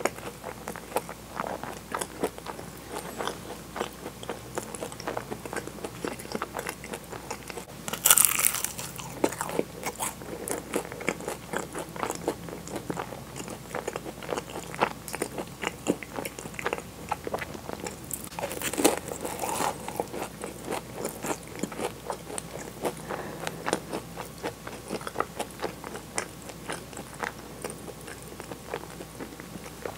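Close-miked eating of Portuguese-style egg tarts: flaky pastry crunching and chewing with many small mouth clicks, loudest in two crunching bites about 8 and 19 seconds in.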